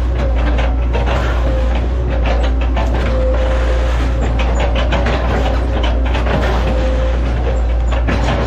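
Hitachi ZX110 excavator running under load: a steady low diesel drone with a wavering hydraulic whine over it, and a busy run of knocks and rattles.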